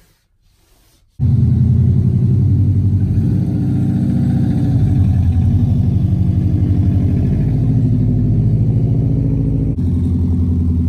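Subaru WRX's flat-four engine and exhaust running loud at low speed as the car pulls away, starting abruptly about a second in. The engine note rises and falls a little with the throttle.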